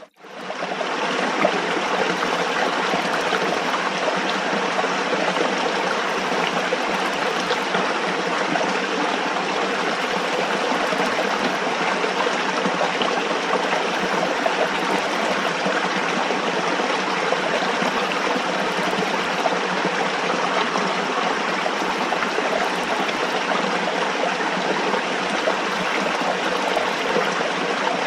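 Running water flowing steadily with an even rushing, trickling sound. It cuts out for a moment at the very start, then resumes.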